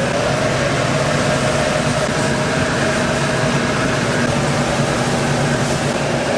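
Commercial kitchen's high-powered gas wok burner and exhaust running, a steady loud noise with a low hum throughout.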